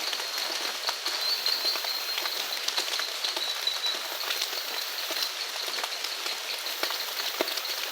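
Steady rain falling, with many separate drops tapping close by. A thin, high-pitched animal trill rises and fades in phrases a couple of seconds long.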